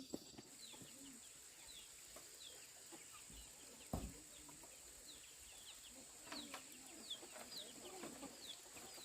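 Quiet farmyard ambience: small birds give short, high, falling chirps again and again, and chickens cluck faintly in the second half. A single thump sounds about four seconds in.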